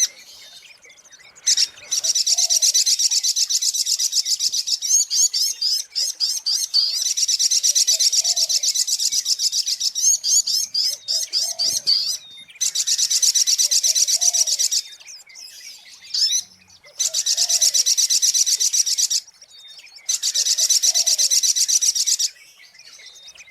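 Sogok ontong (sunbird) song: long runs of rapid, high-pitched chirping trills, broken by short pauses every few seconds. A faint, low, curved call repeats about every two seconds underneath.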